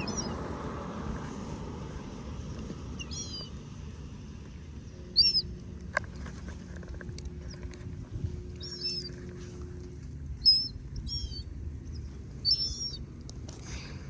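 A small bird chirping: short, high calls repeated every second or two over a low steady background rumble.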